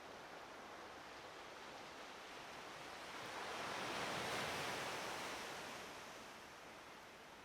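A small wave washing in on the shore of a calm sea: a soft rush of water that swells to its loudest about four seconds in, then fades away.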